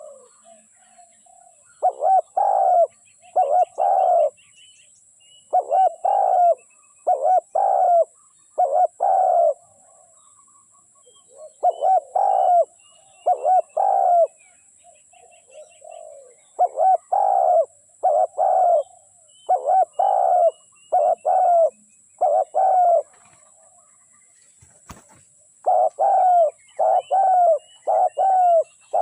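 Spotted dove (tekukur) cooing in repeated phrases of three or four hoarse notes, a pause of a second or two between phrases, the call of a decoy dove set out to lure wild ones. Small birds chirp faintly in the background.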